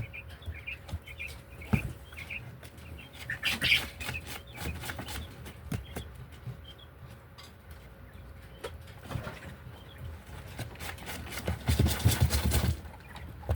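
Pet birds chirping and moving about, with scattered sharp clicks and knocks. A louder burst of clatter and flapping comes near the end.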